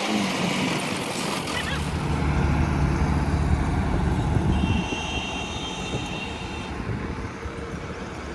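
A motor vehicle passing close by on a road: a low rumble that swells between about two and five seconds in and then fades, followed by a thin high steady whine for a couple of seconds.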